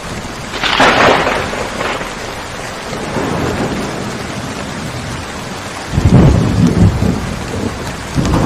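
Steady rainfall with thunder. A sharp thunderclap comes about a second in, and a deep rumble of thunder follows from about six seconds in.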